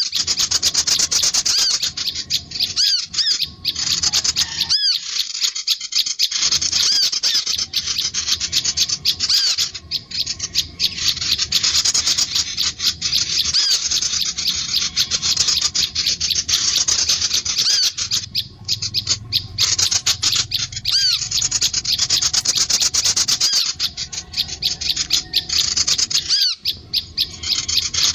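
Fast, high-pitched twittering and trilling of small songbirds, running almost continuously with a few short breaks.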